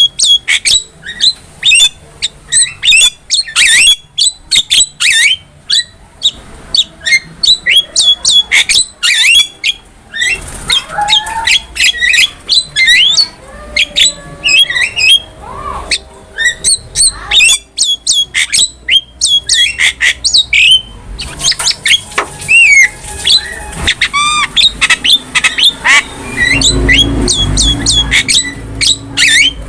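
Javan myna calling in a rapid, unbroken stream of sharp whistles, squawks and chattering notes. A low rumble comes in near the end.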